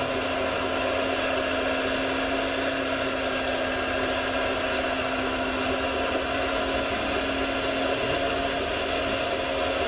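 Small electric motors of a radio-controlled scale construction model running steadily, a continuous whine with several held tones.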